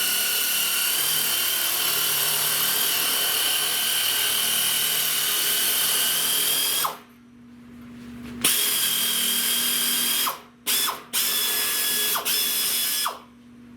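Small high-speed power cutting tool slicing through a sheet-metal patch panel, with a steady high whine. It stops about seven seconds in and starts again a second and a half later. It is released and blipped twice briefly around ten seconds, then runs again until it stops shortly before the end.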